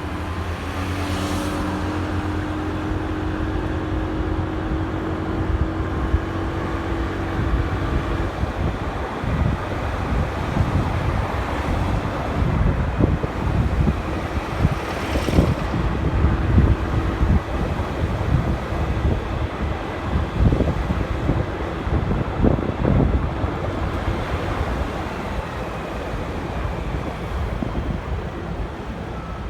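Riding motorcycle's engine and road noise, with wind buffeting the microphone; the buffeting comes in gusts and is heaviest through the middle.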